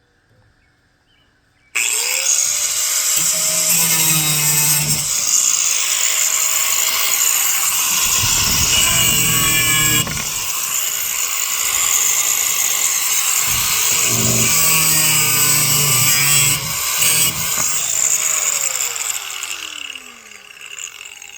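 Makita angle grinder switched on about two seconds in, its motor whining up to speed, then grinding through old 4-inch nails in wood trim with a loud, harsh noise that dips and swells with the load. Near the end it is switched off and the motor's whine falls away as the disc spins down.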